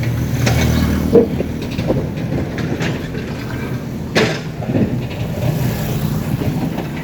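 Motor vehicle engine running close by: a steady low hum, strongest in the first second, with two sharp knocks about a second in and about four seconds in.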